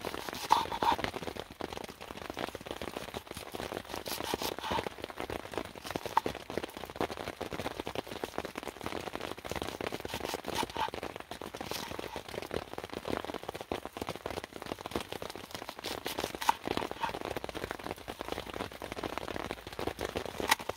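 Rain and drips pattering steadily, a dense crackle of small drops with a few louder single drops now and then.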